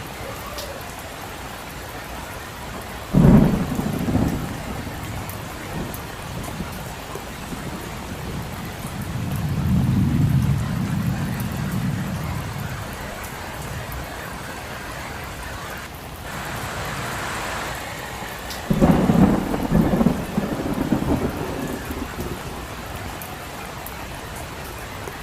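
Steady rain falling, broken by thunder: a sudden clap about three seconds in, a low rolling rumble that swells and fades around ten seconds in, and a second sudden clap rumbling on for a couple of seconds near nineteen seconds in.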